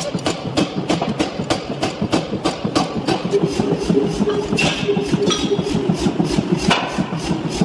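Power forging hammer striking in a rapid steady rhythm, about four blows a second, over a steady machine hum.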